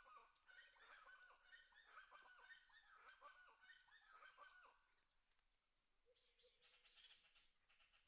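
Domestic fowl, most likely chickens, clucking in a quick run of repeated calls that fades out about five seconds in, with faint high chirping behind.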